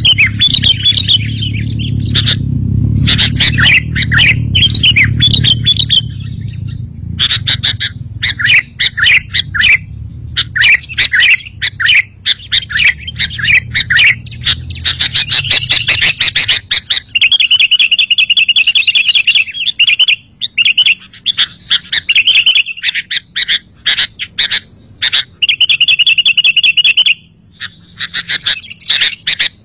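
Sooty-headed bulbul (kutilang) calling: a dense run of quick, sharp chirps, with fast trilled phrases twice in the second half. A low rumble sits underneath for the first half, then drops away.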